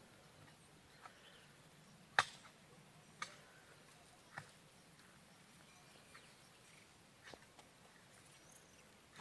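Quiet background broken by a handful of short, sharp clicks or taps, the loudest about two seconds in and the others at irregular gaps of one to three seconds.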